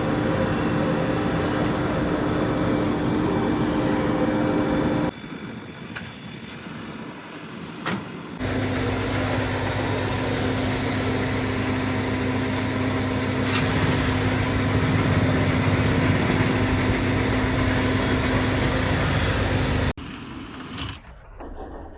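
JCB diesel engine running steadily with a droning hum, in stretches joined by abrupt cuts: about five seconds in it drops to a much quieter stretch, comes back loud about three seconds later, and cuts to a quieter, fading stretch near the end.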